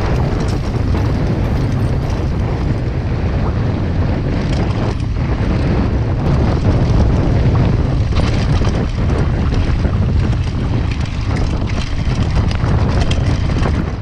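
Wind buffeting the microphone on a fast mountain-bike descent, with the bike clattering over rough trail throughout. The noise drops off abruptly at the very end.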